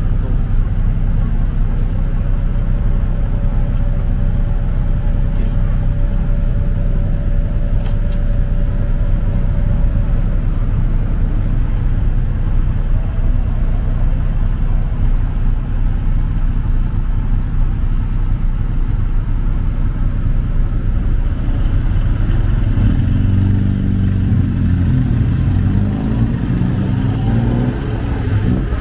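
Motorcycle taxi under way: a steady heavy low rumble of engine and road noise, with the engine pitch rising and falling in the last few seconds as it speeds up and slows.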